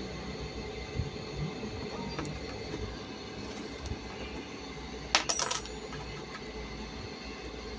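A brief metallic clatter of small hard objects, a quick cluster of clicks about five seconds in, over a steady low hum.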